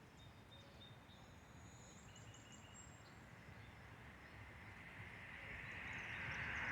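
Faint bird chirps over a low outdoor rumble. A hiss of noise swells steadily over the last few seconds.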